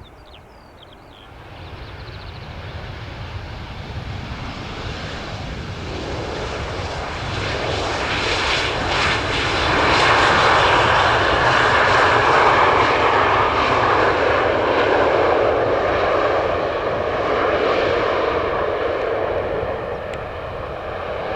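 Jet airliner's engines roaring as it passes close by, growing louder over about ten seconds, loudest about halfway through, then easing off a little, over a steady low rumble.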